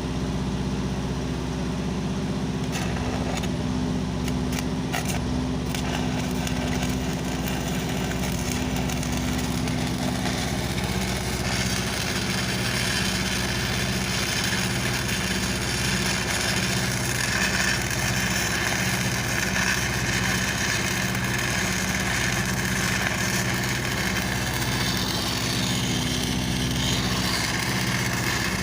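Engine-driven welding machine running steadily, with a few sharp clicks about three to six seconds in. From about eleven seconds in, the continuous hissing crackle of a welding arc joins it.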